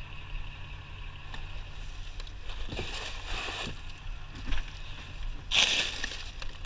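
Scrap being handled in a dumpster: a few light knocks, then a louder scraping rustle about five and a half seconds in, over a steady low hum.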